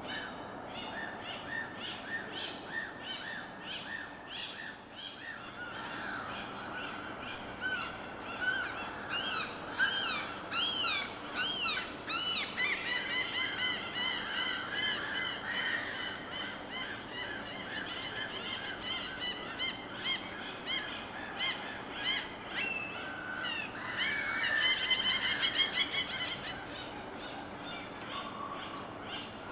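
Several birds calling, with quick runs of short repeated chirping notes that come thickest about a third of the way in and again near the end, over a steady wash of water.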